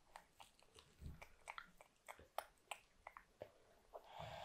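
Toddler chewing a crumpet: faint chewing with a quick, irregular run of small mouth clicks and smacks, a soft low thump about a second in and a short breathy rush near the end.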